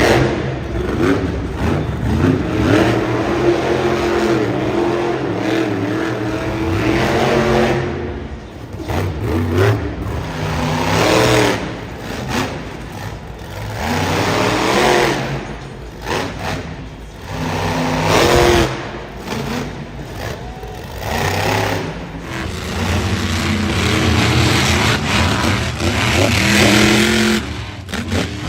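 Monster truck engines revving hard, the pitch climbing and falling again and again as the throttle is worked, with loud noisy surges at the peaks.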